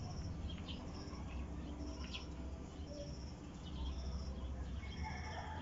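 A bird chirping a short high note about once a second, over a low steady hum.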